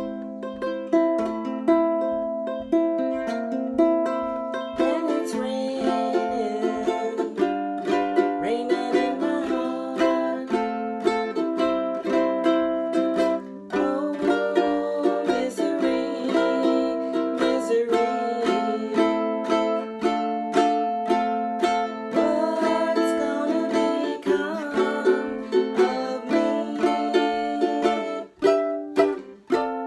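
Ukulele strummed in an island strum pattern, playing a chord progression in the key of C, with a melody line joining above the chords about five seconds in.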